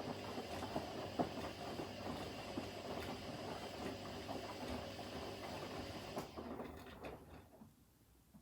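Front-loading washing machine drum tumbling wet laundry: water sloshing with small knocks and clicks. The drum winds down and stops about seven to eight seconds in, the usual pause in the wash's tumble cycle.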